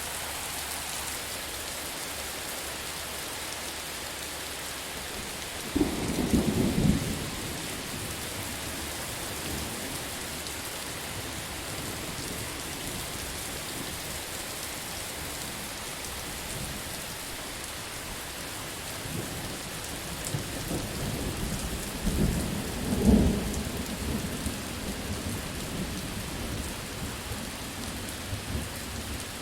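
Steady heavy rain with thunder: a sharp loud clap about six seconds in, then a longer rolling rumble that builds to a peak past the middle and fades off.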